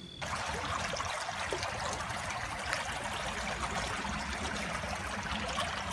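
Steady rushing sound of running water, starting abruptly just after the start.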